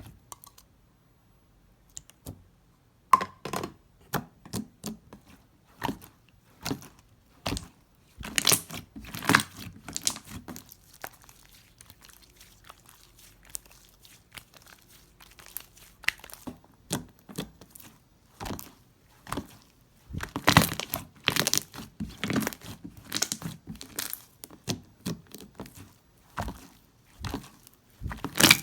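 Slime being played with by hand: irregular sticky crackles, pops and tearing sounds as it is pressed, stretched and folded. There are denser runs of crackling about eight seconds in and again around twenty seconds in.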